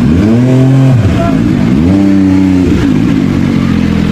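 Superbike engine revved twice, the pitch climbing and dropping back each time, then settling to a steady idle.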